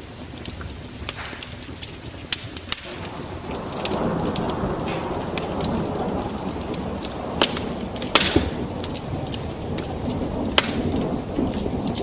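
Wood fire crackling in a fireplace, with frequent sharp pops. About three and a half seconds in, a low rumble swells up and holds under the crackling.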